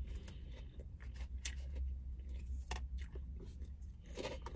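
A person chewing salad lettuce at close range, with scattered small crunches, over a steady low hum.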